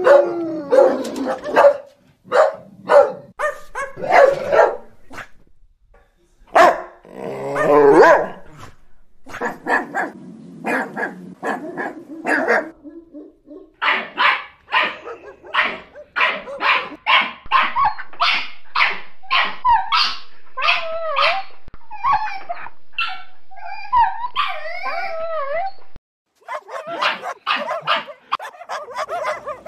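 Several dogs barking in a string of spliced clips: bursts of separate barks, then a long run of quick barks, then a few seconds of wavering, higher cries. Near the end the sound cuts off abruptly and the barking starts again.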